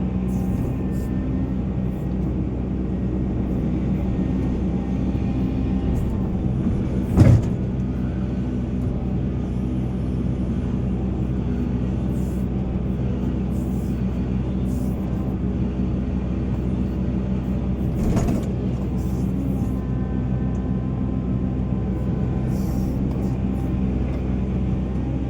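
Volvo EC480 excavator's diesel engine running steadily under working load. A loud knock comes about seven seconds in and a smaller one about eighteen seconds in.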